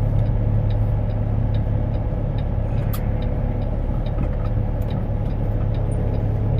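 Semi truck's diesel engine running steadily at low speed, heard from inside the cab, with the hazard flashers ticking evenly about two or three times a second and a couple of sharper clicks midway.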